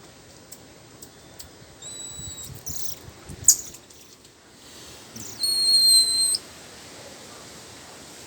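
Two flat, high whistled notes over a steady hiss: a short, fainter one about two seconds in and a louder one held for about a second near the middle, with a sharp click between them.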